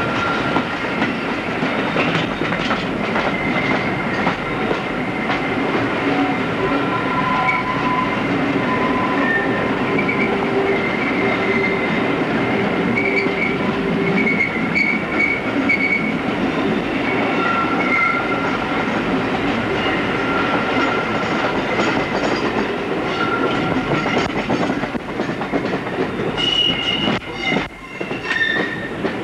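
Train running through sidings, heard from on board a moving coach. Continuous rumbling wheel-on-rail noise with clacking over joints and pointwork, and intermittent high squealing tones from the wheels.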